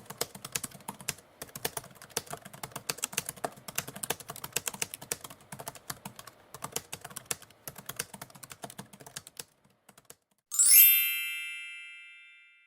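Typewriter keys clacking in quick, uneven runs, which stop about nine and a half seconds in. About a second later a bell strikes once, loud and ringing, and fades away over about two seconds, marking the end of the countdown.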